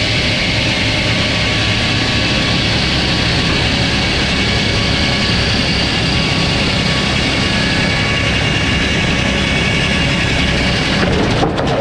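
Sawmill running loud and steady, its engine and saw making a dense continuous din; near the end the sound changes, losing its high hiss.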